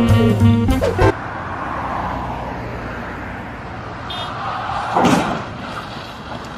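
Saxophone jazz music cutting off about a second in, then steady road and traffic noise of a car on the move, with a brief loud sound about five seconds in.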